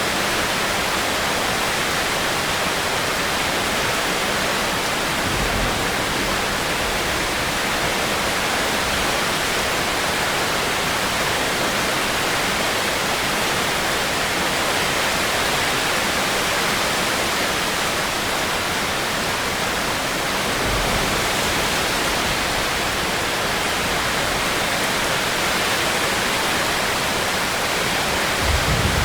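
Rainstorm: steady rain falling as an even hiss, with a few brief low rumbles, the last one near the end.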